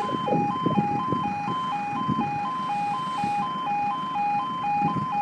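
Level crossing warning alarm sounding its two-tone yodel, switching between a lower and a higher pitch about twice a second, the signal that a train is approaching and the barriers are down. A low rumble runs underneath.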